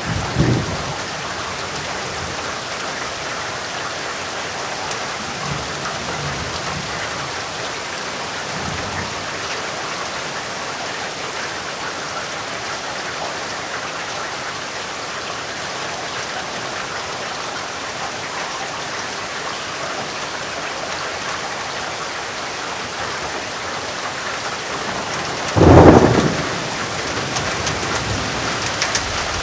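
Steady rain, with faint low thunder rumbles early on and one loud thunderclap near the end that fades over about a second.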